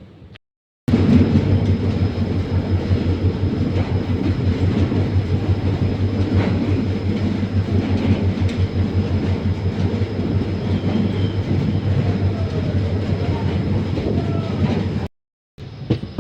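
Moving train: a loud, steady rumble and clatter of wheels running on the rails, with a faint steady high whine. It starts abruptly just under a second in and cuts off abruptly about a second before the end.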